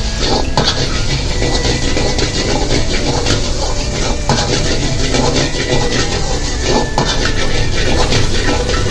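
Prawns and egg sizzling as they are stir-fried in a hot pan, with repeated scrapes and knocks of a spatula against the metal.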